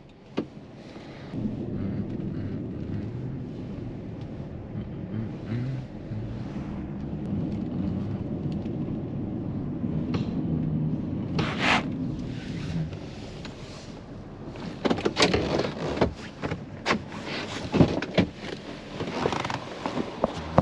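A vehicle running with a steady low hum, then a run of sharp knocks and clanks near the end.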